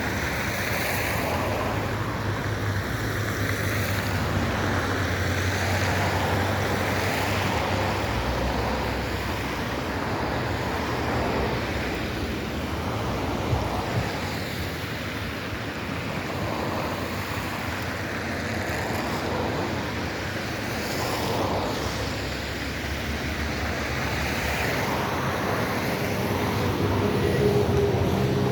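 River water rushing and churning, a steady noise that swells and eases, with wind buffeting the microphone.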